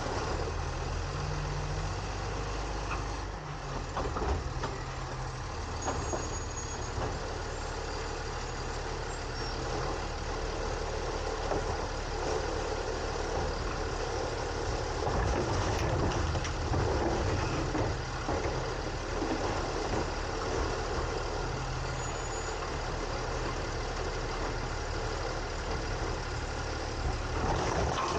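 Side-loading garbage truck running, heard from inside its hopper: a steady engine hum whose pitch shifts a few times, under a constant mechanical and hydraulic clatter from the arm and hopper, with occasional short knocks.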